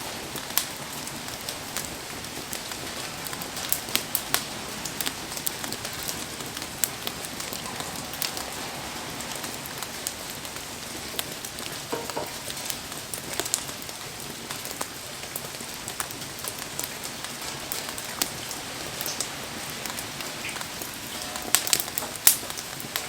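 Steady rain falling around a crackling wood campfire, with sharp pops and ticks throughout and a quick flurry of louder pops near the end.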